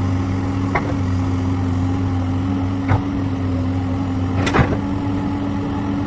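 Excavator engine running at a steady pitch, with three sharp knocks about one, three and four and a half seconds in.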